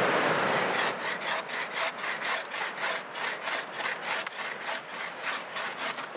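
Hand saw cutting through a piece of green wood with quick, even back-and-forth strokes, about three to four a second, with wind blowing over the microphone in the first second.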